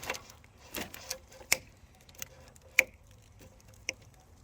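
Cutters snipping through a car's wiring harness: about seven sharp, irregular clicks, the loudest a little under three seconds in.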